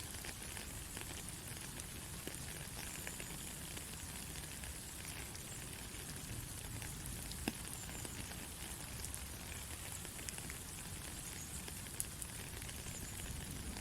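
Steady rain falling, an even hiss with a low rumble beneath and scattered individual drop ticks.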